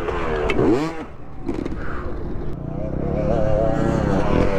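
Dirt bike engine revving: its pitch dips and climbs back within the first second, then rises steadily over the last two seconds as the bike accelerates.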